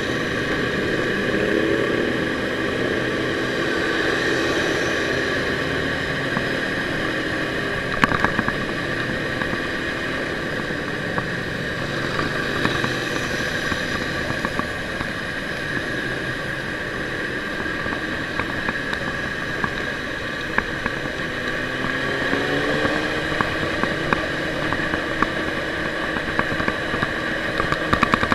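Ducati sport motorcycle's engine running under way, its pitch rising and falling as the throttle changes, with a clear rise about three quarters of the way through, over steady wind and road noise.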